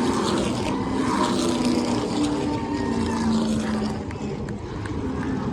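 NASCAR Truck Series race trucks' V8 engines running at speed around the oval. Several engine notes overlap and slowly rise and fall in pitch as the trucks go by, dipping a little about four seconds in.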